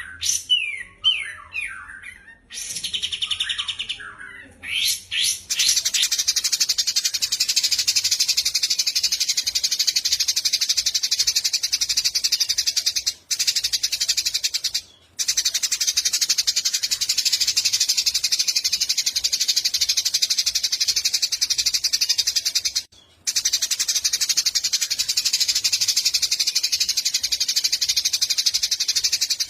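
Recorded songbird song used as a tutor track for training white-rumped shamas. It starts with separate sweeping chirps and a short buzzy note, then from about five seconds in becomes a dense, high, very fast continuous trill that breaks off briefly three times.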